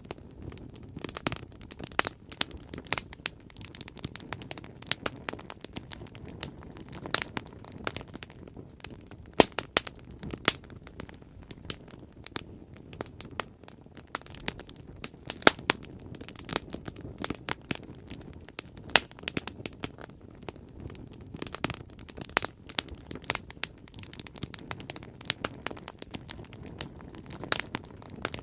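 Bonfire crackling, with irregular sharp pops and snaps of burning wood over a low steady rush.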